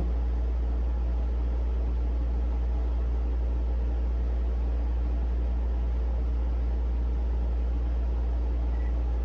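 Steady low hum with a faint even hiss above it, unchanging throughout.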